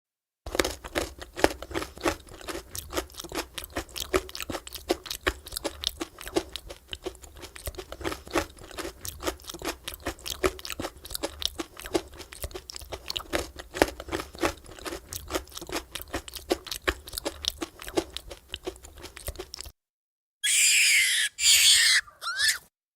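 New Zealand White rabbit chewing with fast, irregular crunches that stop about twenty seconds in. Then the rabbit squeals three times in quick succession, very high-pitched and loud: a rabbit's distress scream.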